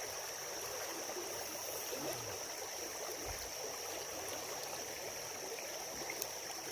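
Creek water running steadily over rocks, with a thin steady high whine above it.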